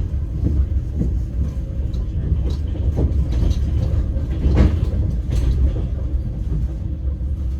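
Passenger train running, heard from inside the carriage: a steady low rumble with irregular knocks of the wheels passing over rail joints.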